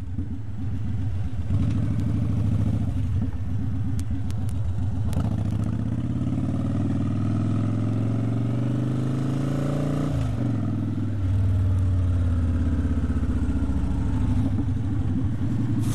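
Cruiser motorcycle engine running under way and accelerating: its pitch climbs steadily, drops sharply about ten seconds in, then climbs again.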